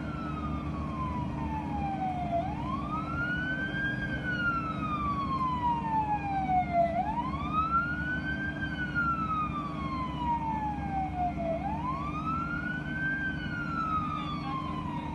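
Emergency siren on a slow wail: each cycle climbs quickly, then falls slowly over about three seconds, repeating roughly every four and a half seconds, over a steady low rumble.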